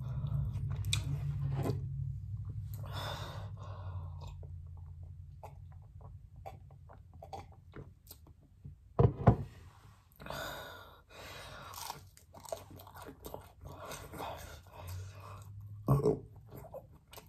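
Close-up chewing and biting of fried chicken and pizza, with crunches, smacks and small mouth clicks. There are two louder knocks, about nine and sixteen seconds in.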